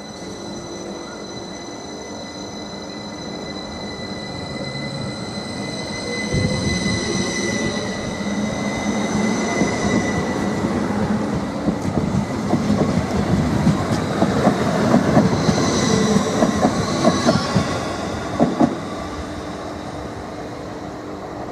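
A train running through a station. A steady high-pitched whine or squeal with several overtones fades after about ten seconds as the rumble of the wheels builds. Wheel clacks over the rail joints are loudest in the second half, and the sound drops away shortly before the end.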